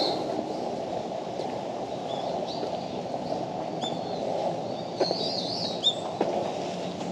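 Small birds chirping in short, high, curving calls, a few of them about two seconds in and a cluster between four and six seconds in, over steady outdoor background noise. A few light clicks sound near the end.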